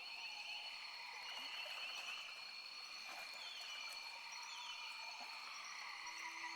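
Amazon rainforest animal chorus, faint and steady: a continuous high-pitched insect buzz with repeated rapid trilling calls.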